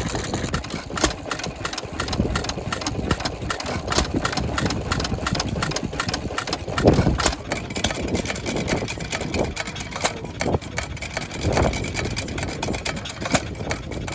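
Vintage stationary engines running, with a quick, regular beat of firing strokes and clicking valve gear. Wind buffets the microphone, with louder gusts twice.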